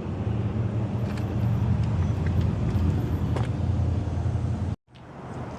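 1998 Pontiac Grand Prix GT's 3.8-litre V6 idling with a steady low rumble, cut off suddenly near the end and followed by quieter background sound.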